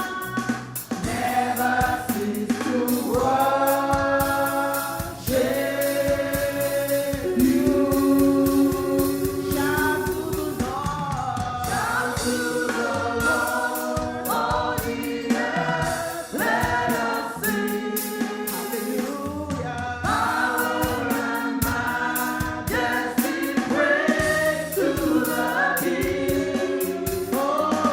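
Worship choir singing gospel praise music with held, sustained notes over band accompaniment with drums.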